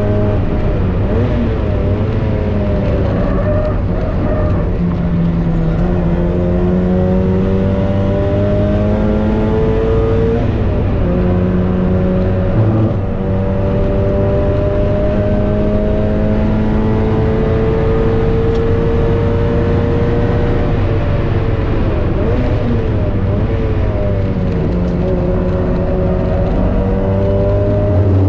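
Mazda MX-5 NB's 1.8-litre four-cylinder engine heard from inside the cabin under hard track driving. Its pitch climbs steadily under acceleration several times and drops back sharply between climbs.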